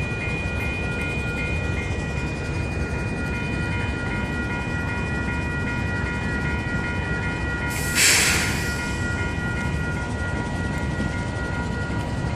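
Level-crossing warning bell ringing in a steady fast repeat, about three strokes a second, over the low rumble of a stopped train. A loud hiss lasting about a second cuts in about eight seconds in.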